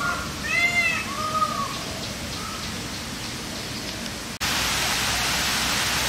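A bird gives a few short arched calls, each rising and falling, in the first second and a half, with a fainter one a little later. Steady rushing noise runs underneath and gets louder after an abrupt cut about four seconds in.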